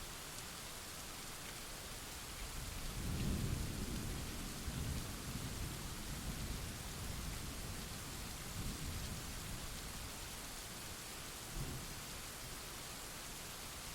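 Steady rain hiss with a roll of thunder. A low rumble builds about two and a half seconds in, peaks soon after, and rolls on in waves for several seconds, with a short low clap near the end.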